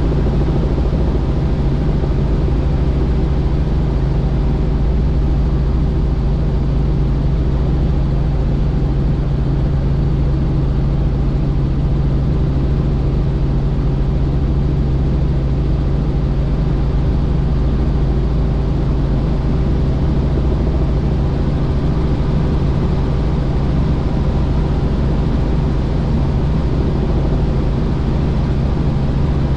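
Helicopter in flight: a loud, steady drone of rotor and engine with a low hum that does not change.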